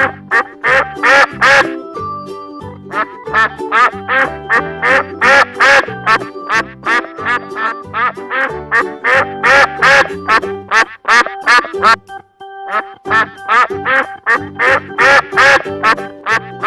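Duck quacking over and over, short calls coming in quick runs. A light music track plays underneath.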